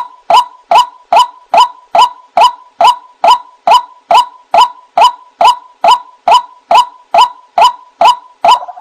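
White-breasted waterhen (ruak-ruak) repeating its 'wak' call in a fast, even series, a little over two notes a second, each note sliding slightly upward; a lure call for trapping the bird. Near the end the notes start to crowd together into a busier chorus.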